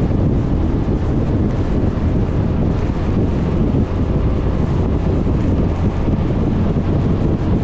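Steady wind rush buffeting the microphone of a camera mounted on a moving Suzuki Burgman 400 scooter, a dense low rumble with no distinct events.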